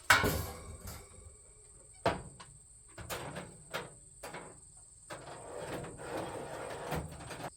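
Sheet-metal door and latch of a vertical smoker clanking as it is shut and tried after adjusting the door tension. There is a sharp clank at the start and another about two seconds in, then smaller knocks and a stretch of metal rattling and clattering near the end.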